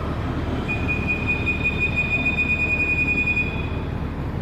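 A new motorcycle tyre being inflated past normal pressure so that its bead seats on the rim for the first time. A steady high squeal sounds for about three seconds over a steady rushing noise.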